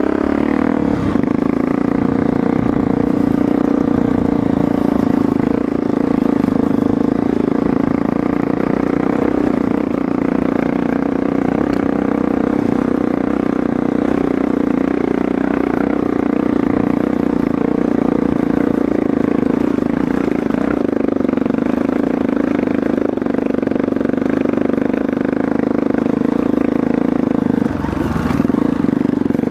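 Trail motorcycle engine running steadily at an even pitch while riding, dipping briefly near the end before picking up again.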